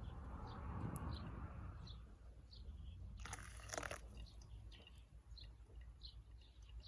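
A small bird calling outdoors with short high chirps repeated about twice a second, with a brief crunching noise a little over three seconds in.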